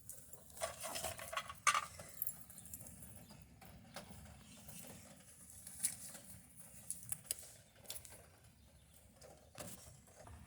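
Light rain dripping in scattered taps, with a brief rustle about a second in.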